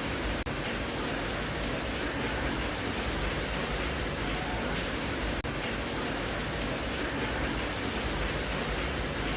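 Steady rain, an even hiss, with a brief dip about half a second in and again about five seconds later.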